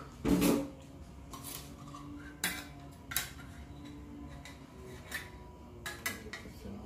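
Kitchen knife striking and piercing the steel lid of a coconut-milk can to open it: a handful of sharp metallic knocks and clicks at irregular intervals, the loudest right at the start.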